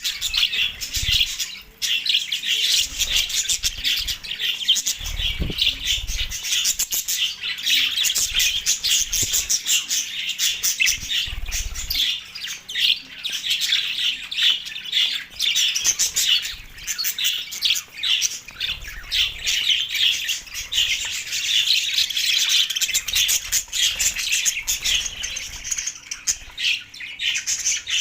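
Budgerigars chattering and squawking without pause, a dense jumble of chirps, warbles and sharp calls.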